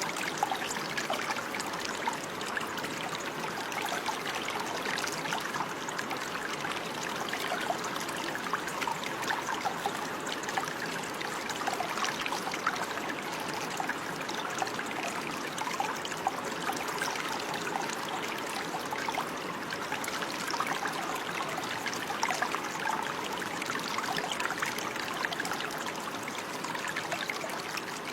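Running water of a small stream, a steady trickling and babbling with many small splashes.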